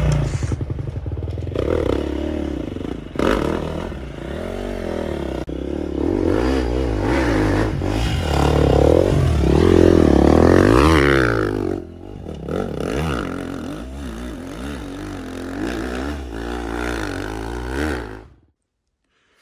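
Dirt bike engine revving up and down over and over, with clattering and scraping, as the rider works the bike through the snow. The sound cuts off suddenly near the end.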